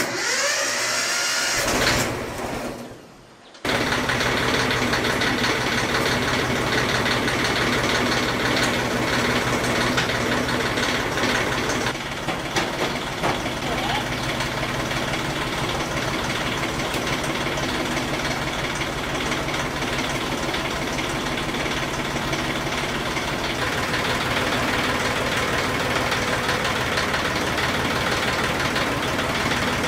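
Heavy truck's diesel engine catching suddenly about three and a half seconds in, then idling steadily with an even, rapid pulse.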